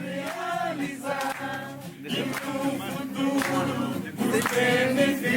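A group of voices singing a song together, like a choir.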